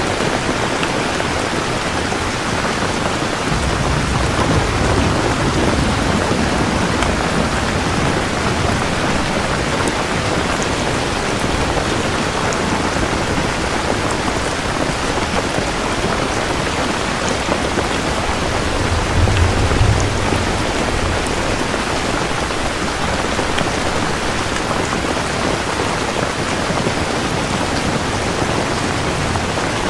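Steady heavy rain, with low thunder rumbling about four seconds in for a few seconds and a shorter, stronger rumble about two-thirds of the way through.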